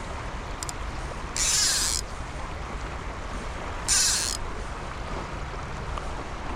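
Steady flow of a river with two brief hissing swishes, about a second and a half in and again near four seconds in.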